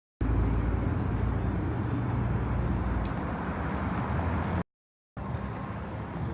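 Car engine running with a steady low rumble. The sound cuts out abruptly for about half a second roughly four and a half seconds in, then an engine rumble resumes, somewhat quieter.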